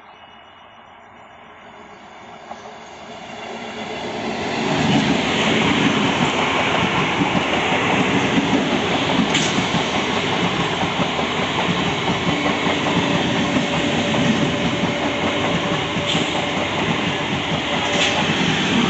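EMU local electric train approaching and passing close by at speed. The noise builds over the first five seconds into a steady rumble and rattle of wheels on the rails, with a few sharper clacks.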